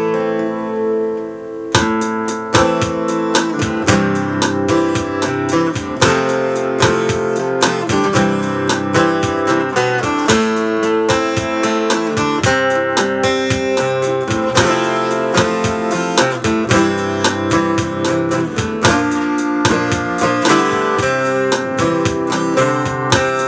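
Acoustic guitar played with strumming: a ringing opening chord, then a steady run of strummed chords about two seconds in, as the instrumental introduction to a song.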